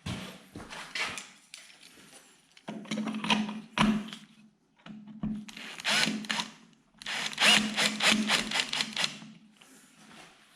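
Cordless drill-driver running in three short bursts, about a second or two each, with handling clicks in between, as it drives screws.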